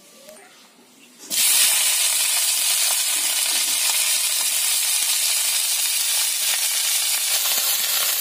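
Cauliflower florets dropped into hot oil in a kadai, setting off a sudden loud sizzle about a second in that goes on steadily while they are frying, with a few light clicks of the spatula stirring them.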